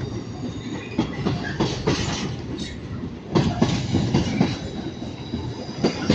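Avanti West Coast Class 390 Pendolino electric train pulling out, its wheels clattering irregularly over rail joints and points with a steady rumble and a faint high squeal, the knocks loudest and densest about three and a half to four and a half seconds in.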